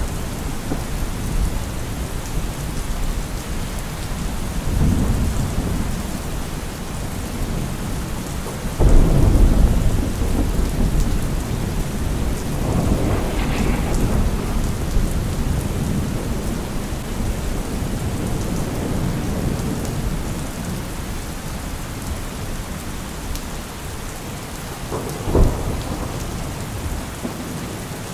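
Heavy rain falling steadily, with thunder rolling through it: a sudden loud rumble about nine seconds in, another rumble with a crackle a few seconds later, and a sharp thunderclap near the end.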